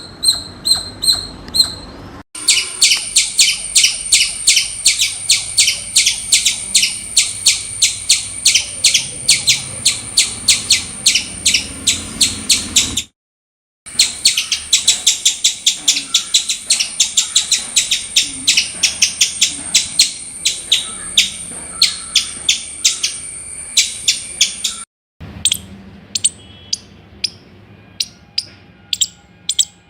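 Squirrel alarm calling: a rapid string of sharp, high chirps, about four a second, in runs that break off twice, and sparser and fainter near the end.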